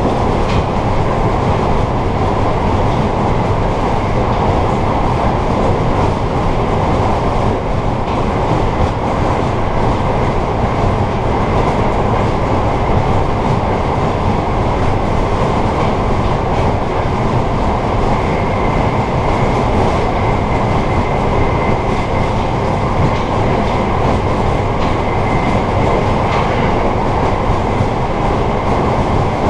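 Amtrak Empire Service passenger train running at speed, heard from inside its rear car: a steady rumble of wheels on rail and car body noise, with a faint thin whine a little past the middle.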